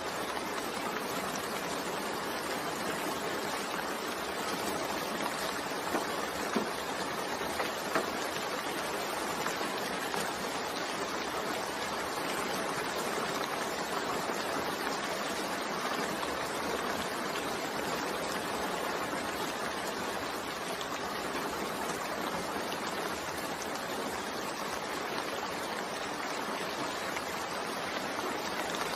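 Steady rain falling, an even hiss, with a few sharper drop taps about six to eight seconds in.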